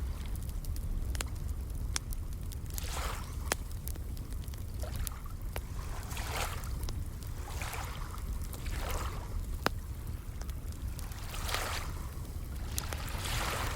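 Campfire crackling with scattered sharp pops, over small waves washing and sloshing in repeated swells every second or two, with a steady low rumble underneath.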